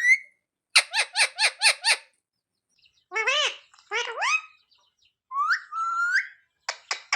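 Indian ringneck parakeet calling: a quick run of about six sharp, repeated notes, then two short rising calls and a longer call that rises and holds near the end.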